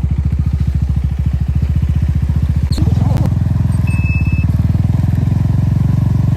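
Motorcycle engine running under way, a steady fast pulsing exhaust note. About three seconds in there is a brief click and the engine note grows louder. A short high beep sounds about a second later.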